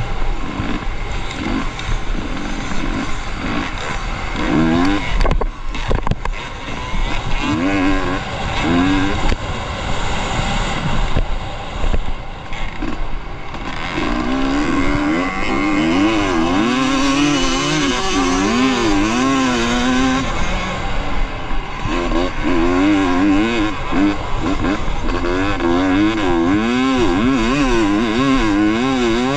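Off-road dirt bike engine revving up and down again and again, its pitch rising and falling with the throttle. The revving is choppy at first, with a brief dip about five seconds in. About halfway through it becomes louder and continuous.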